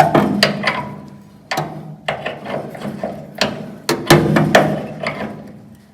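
Wrench working a tight door hinge bolt on a truck cab: a string of sharp metallic clanks and clicks at irregular intervals, some ringing briefly.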